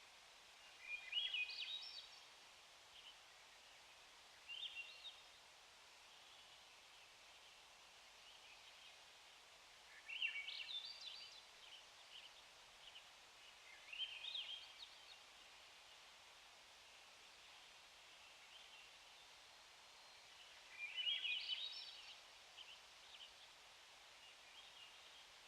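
A small songbird singing short phrases of quick rising notes, five times, each a second or so long, with a few faint single notes in between. Under it runs a faint steady hiss.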